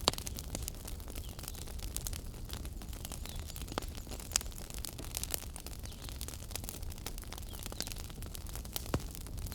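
Wood fire burning in a fireplace: a steady low rumble of flames with frequent sharp crackles and pops, the loudest right at the start and another near the end.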